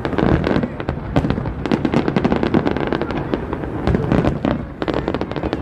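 Fireworks going off in rapid succession: a dense string of bangs and crackling over a continuous rumble of blasts, with a brief lull about five seconds in.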